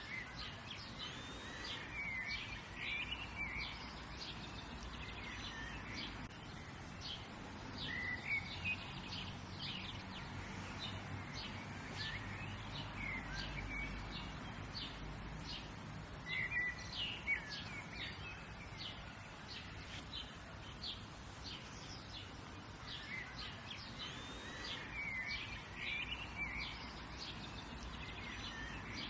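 Several songbirds chirping and twittering, short calls and phrases repeating, over a steady outdoor background hum.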